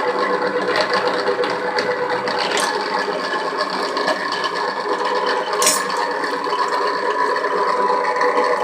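Powered pipe cutting and threading machine running steadily on half-inch pipe, a loud mechanical hum with metallic rattling and scraping from the work.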